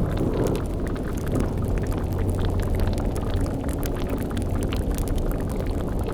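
Bubbling, boiling liquid in a sound-effect cauldron, layered over a steady low rumble, with many faint scattered pops.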